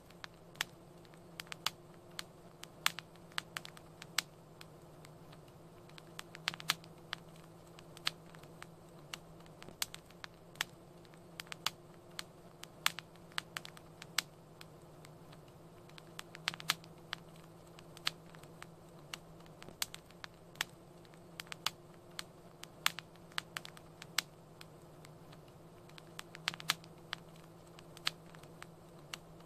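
Wood fire burning in a fireplace: irregular sharp crackles and pops scattered throughout, over a soft low rumble.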